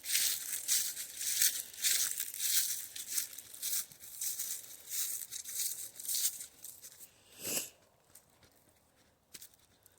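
Footsteps crunching on a dry woodland trail, about two steps a second, stopping shortly before the end.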